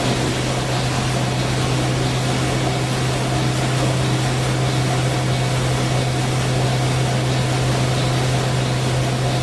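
Steady engine-room din of a Sulzer 12RTA96C, a 12-cylinder two-stroke low-speed marine diesel main engine running at about 70 rpm. It is a constant deep hum over a loud, even hiss.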